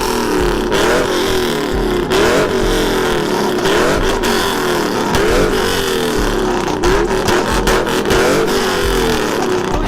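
Vehicle engine revved again and again, its pitch rising sharply and falling back roughly once a second.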